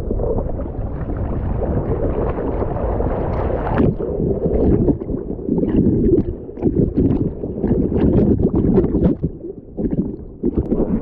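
Ocean water sloshing and splashing around the camera while swimming in the surf. It is fairly even for the first few seconds, then choppy with sharp splashes from about five seconds in.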